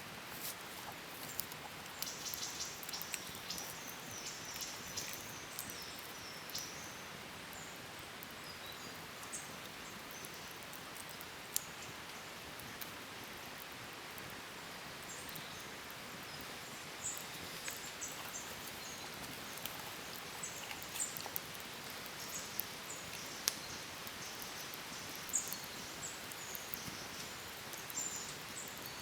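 Outdoor nature ambience: a steady hiss with scattered light ticks and short high chirps, like small birds, in the first few seconds and again through the second half.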